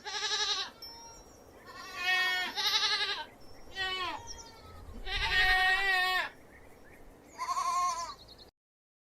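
Goat bleating about six times in a row, each call a wavering, quavering bleat, with short gaps between them.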